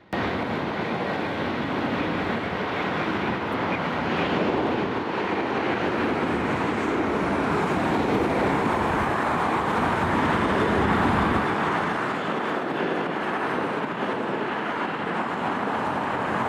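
Boeing 757-200 in its climb after takeoff: a steady rushing of jet engine and airflow noise.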